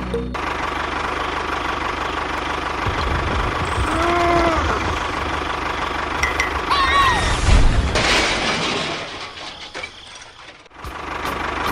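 A small motor running steadily, with a couple of short high squeaks. It drops away for over a second near the end, then comes back.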